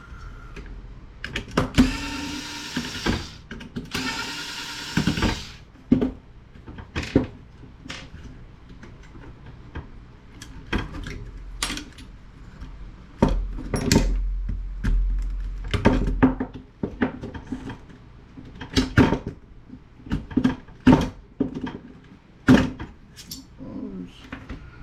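A handheld power tool runs in two short bursts, each about a second long, followed by many sharp clicks and knocks of metal parts and hand tools being handled while the monitor is taken apart.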